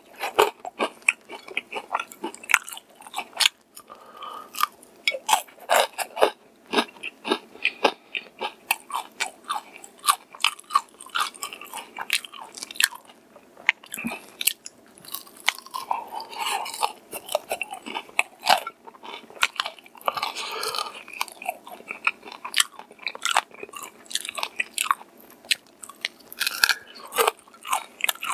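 Close-up crunching and chewing of crispy fried chicken with a flaky golden coating (60계 Tiger Chicken). Biting and chewing make many sharp, irregular crunches, with wet mouth sounds in between.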